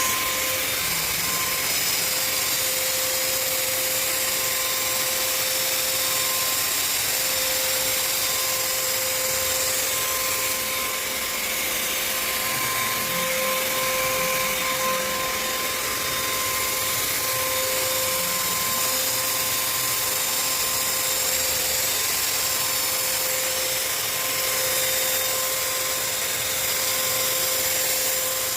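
Electric paint sprayer running steadily while spraying a ceiling: an even hiss with a constant motor whine.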